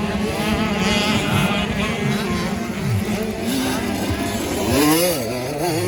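Several 85 cc two-stroke motocross bikes racing, their engines revving up and down as the riders work the throttle. Near the end one engine rises and falls in pitch several times in quick succession.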